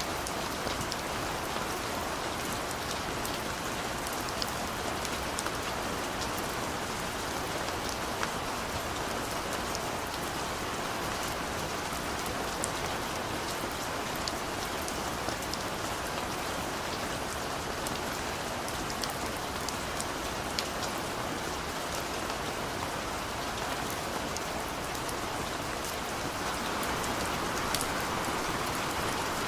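Steady rain falling, a dense even hiss with many small drop ticks, swelling a little near the end.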